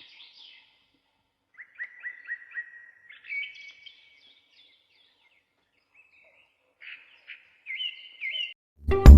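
Small bird chirping in short groups of repeated high calls, with pauses between. Music starts loudly just before the end.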